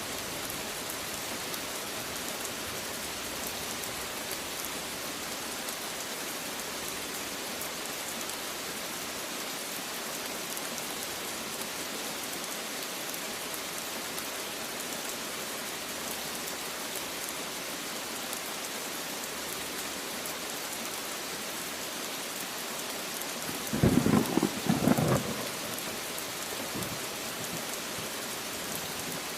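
Steady rain falling. Near the end, a short, loud clap of thunder in two quick peaks rises over the rain.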